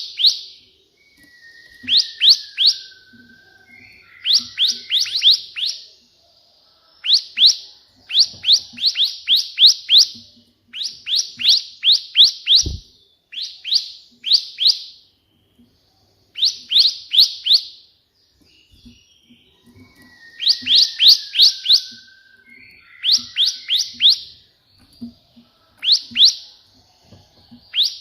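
Bar-winged prinia (ciblek) singing its rapid 'tembakan' song: repeated bursts of three to six sharp, high, falling chirps, one burst every second or two. A lower, falling whistle comes twice, and a single low thump sounds about halfway through.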